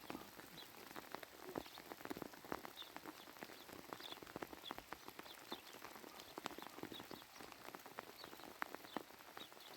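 Rain falling, with many irregular drops tapping close by and faint short high chirps throughout.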